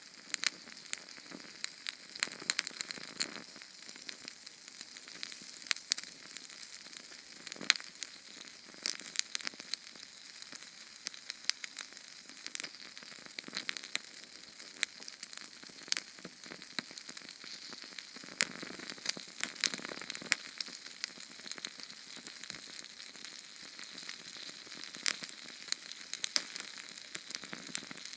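Small Sterno canned-fuel flame crackling: a steady hiss with many sharp, irregular pops and ticks.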